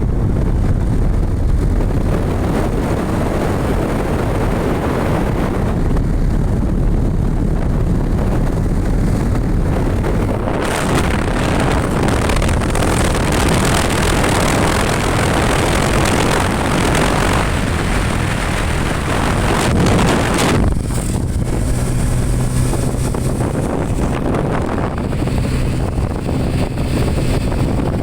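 A motorcycle riding along, its engine rumbling under heavy wind buffeting on the microphone. A louder rush of wind runs from about ten to twenty seconds in. After that a steadier engine hum comes through.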